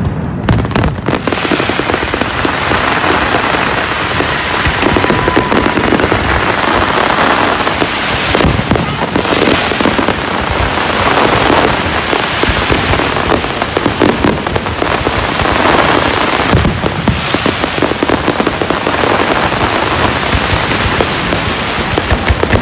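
Fireworks going off without a break: dense crackling with many sharp bangs.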